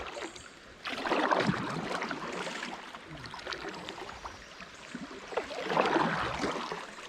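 Water splashing and rushing around a kayak on a small river, with two louder surges, about a second in and again near six seconds.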